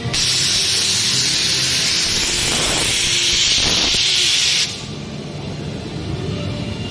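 A loud, steady hiss of escaping air or spray that starts suddenly and cuts off after about four and a half seconds.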